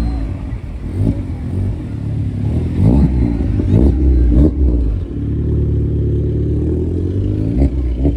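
A car engine running; from about five seconds in it settles into a steady idle.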